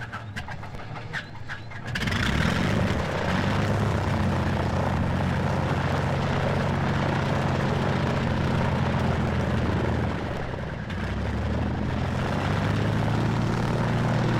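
Propeller aircraft's piston engine being started: a rapid ticking as it turns over, then it catches about two seconds in and runs steadily. It dips briefly about ten seconds in, then picks up again.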